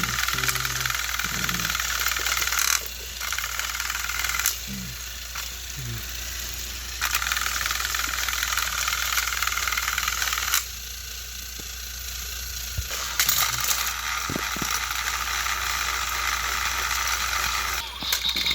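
Battery-powered toy train engines running on plastic track: a high motor whir with wheel and gear rattle that drops and picks up again several times.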